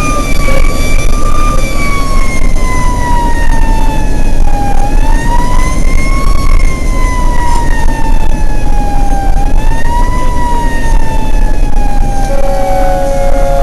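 Fire truck siren wailing, its pitch slowly falling and then rising again several times, over the steady rumble of the truck's engine and road noise. A steady horn note comes in near the end.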